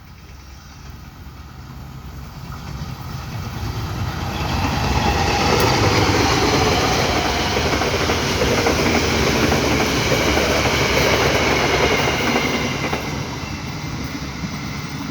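A train passing by: its rumble and wheel noise build over the first few seconds, stay loud for about seven seconds, then fade away.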